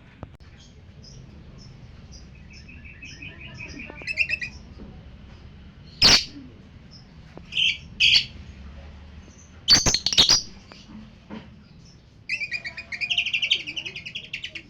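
Lovebirds chirping and chattering in fast trills, with two loud, sharp calls midway.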